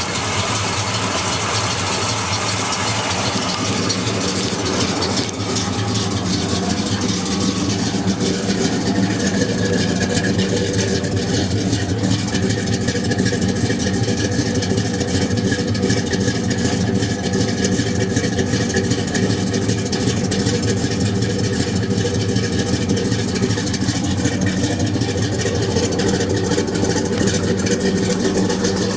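Pontiac 400 V8 idling steadily with a mild cam, through Flowmaster mufflers.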